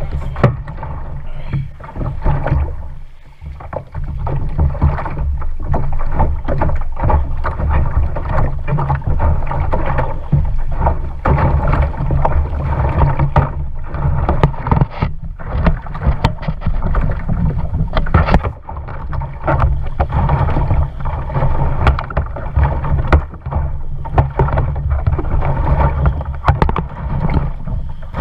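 Wind buffeting the microphone with a heavy low rumble, over irregular splashing of water around a kayak out on the lake.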